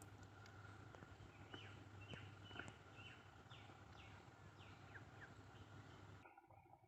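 Near silence: faint room tone with a low hum and a series of faint, short falling chirps about every half second. The hum stops about six seconds in.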